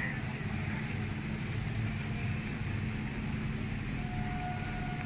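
Suburban electric multiple-unit local train pulling away from a station platform: a steady low rumble and hum with faint ticks. A thin steady whine comes in about four seconds in.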